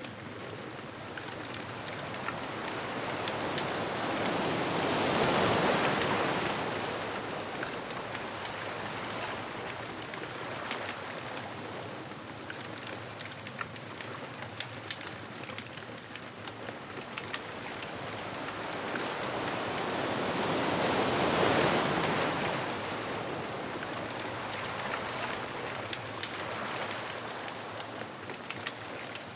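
Ocean surf washing up a beach, swelling and falling twice, with one wave about five seconds in and another about twenty-one seconds in. Light crackling from a bonfire ticks throughout.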